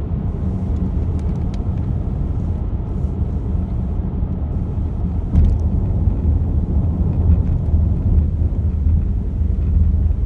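Steady car-cabin noise while driving: engine and road rumble, with a brief click about five and a half seconds in.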